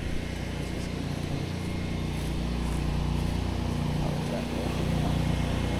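Pressure washer's gas engine running steadily under load, with the hiss of a water spray rinsing the concrete.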